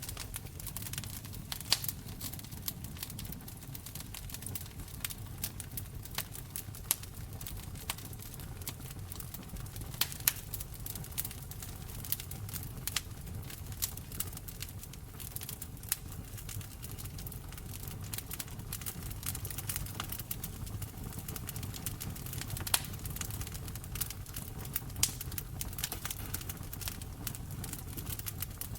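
Wood fire crackling steadily in a fireplace, with irregular sharp pops and snaps over a low continuous rumble of the flames.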